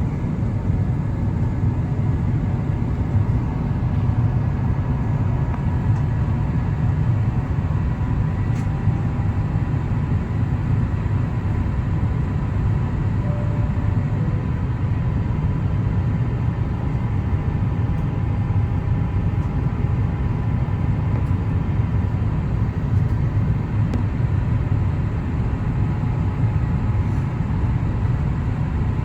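Steady low cabin rumble of an Airbus A350-1000 in descent: airflow and its Rolls-Royce Trent XWB engines, with a faint steady whine above the rumble.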